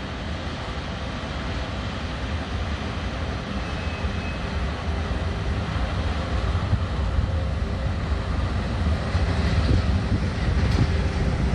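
SBB electric locomotive hauling passenger coaches rolling in along the platform: a low rumble of wheels on the rails that grows steadily louder as it nears and passes, with a little more hiss and squeal from the wheels near the end.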